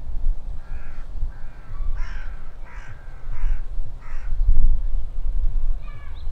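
A bird calling in a series of about six separate calls, with another short call near the end, over wind rumbling on the microphone.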